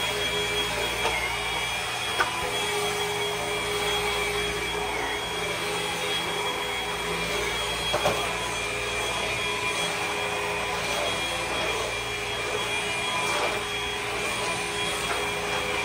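Hart cordless stick vacuum running steadily on a rug, its motor giving an even whine over a rushing hiss, with a couple of sharp clicks about two and eight seconds in.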